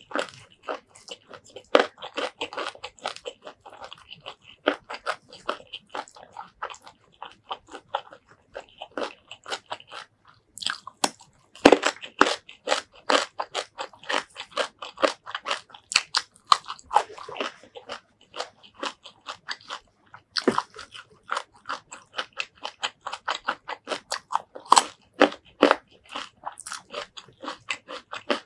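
Close-miked mouth sounds of eating shrimp curry with rice by hand: steady wet chewing with rapid crisp crunches, several a second, and short pauses between mouthfuls.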